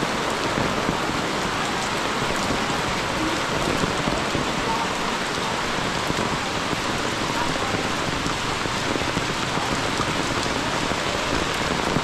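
Steady rain falling on tarpaulins, leaves and muddy ground, with many single drops striking close by.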